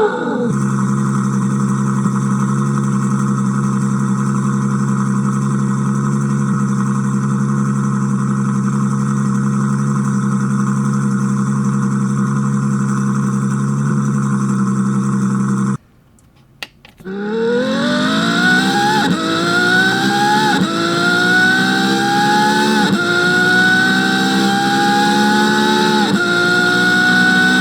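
Ferrari F12 TDF's naturally aspirated 6.3-litre V12 idling steadily. It cuts out briefly, then accelerates hard, the pitch climbing and dropping back at four upshifts.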